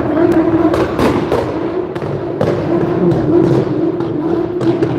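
A car engine held at high revs with a steady note, its exhaust letting off repeated loud pops and bangs.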